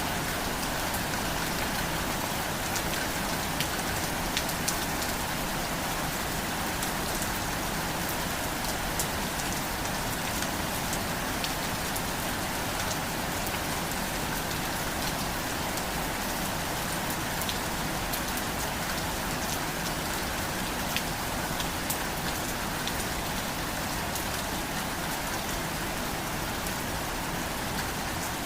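Steady rain falling on surfaces, a constant hiss dotted with sharp individual drop ticks.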